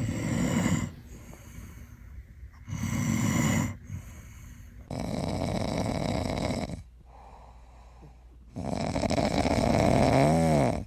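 Dog snoring in its sleep: four long snores a few seconds apart, the last the loudest.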